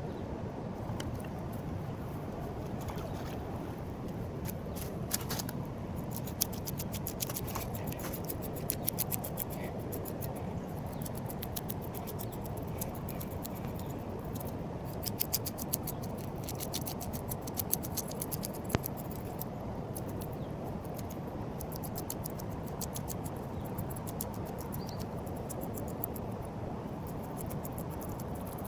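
Knife scraping and cutting a small piau fish to clean it for frying: a run of fine, quick scratchy clicks, thickest in the middle of the stretch, over the steady rushing of the river.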